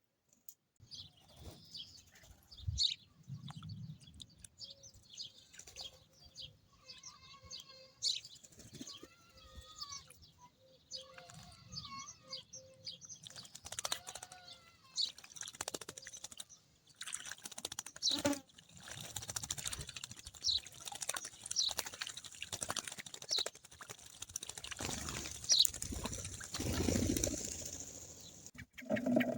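Birds chirping and calling at intervals, with short flurries of wing flapping and scratchy, pattering movement that grow busier in the second half.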